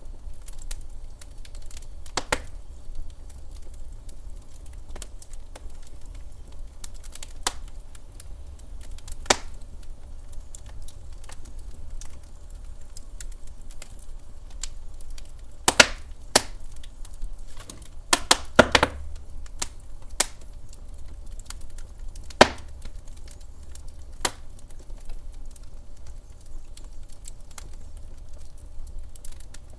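Wood fire in a fireplace crackling, with irregular sharp pops over a steady low rumble of the flames and a quick cluster of louder pops a little past the middle.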